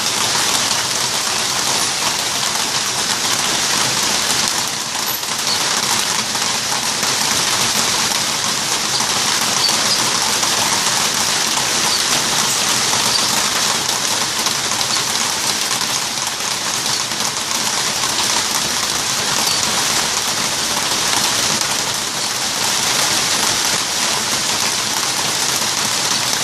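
Steady rain falling on a corrugated metal aviary roof and the surrounding foliage, an even unbroken patter that holds level throughout.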